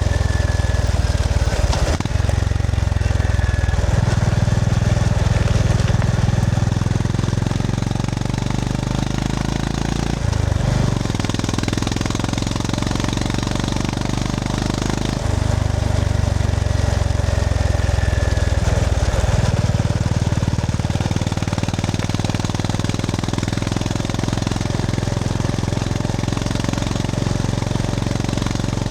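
Honda GB350S's air-cooled single-cylinder engine running on the move, its note shifting several times as the throttle opens and closes.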